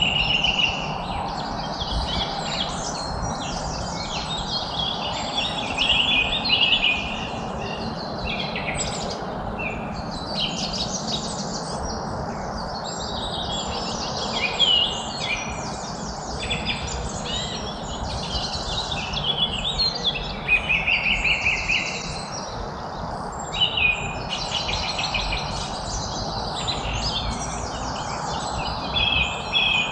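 Many birds chirping and singing at once, with overlapping calls and short rapid trills, over a steady background hiss.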